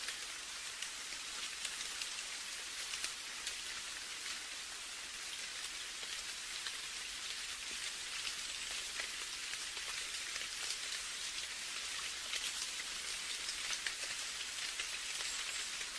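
Steady rain: a dense, even hiss with many small drop ticks scattered through it.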